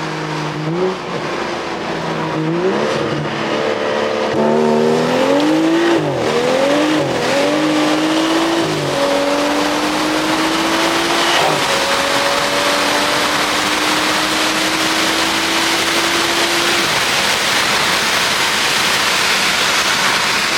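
Car engine accelerating hard through several quick upshifts, its pitch climbing and dropping back with each shift. It then holds one long, steady pull in a higher gear, under a rising rush of wind and road noise.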